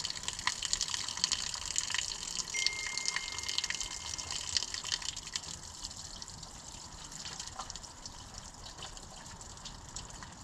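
Coolant draining from an Oliver 77 tractor engine into a bucket: a steady splashing, liquid-spatter stream that eases off somewhat in the second half.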